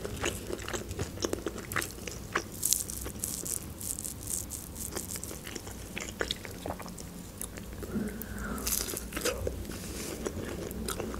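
Close-miked eating of breaded fried chicken nuggets: wet chewing, mouth clicks and crunchy bites of the crust, with the loudest crunch about a second and a half before the end.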